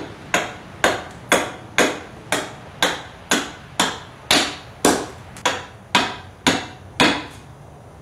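Half hatchet chopping into a mesquite branch, hewing it square: sharp, regular blows about two a second that stop about a second before the end.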